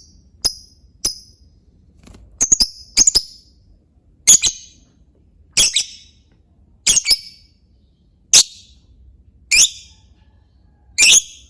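Lovebird giving its 'ngetik' typing call: short, sharp, high chirps repeating about every second and a bit, some single and some in quick pairs or threes.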